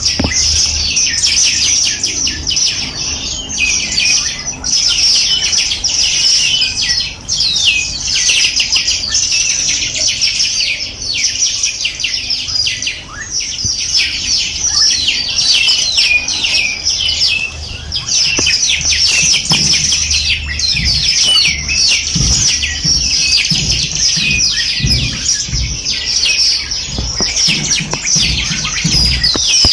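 A chorus of many small songbirds singing at once: overlapping high, rapid chirps and trills, unbroken and dense.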